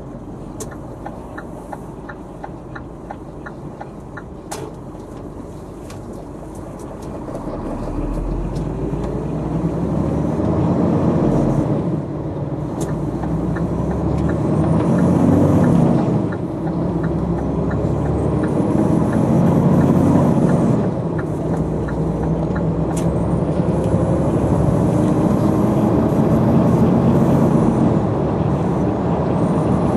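Scania truck's diesel engine accelerating through the gears. The revs climb and drop at each gearchange, about every four seconds, three times in a row, and the engine then pulls steadily. A fast, even ticking runs through the first few seconds and again in the middle.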